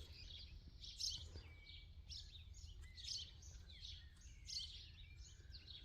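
Songbirds singing in the background: many short, quick chirps and trills from several birds, faint, over a low steady rumble.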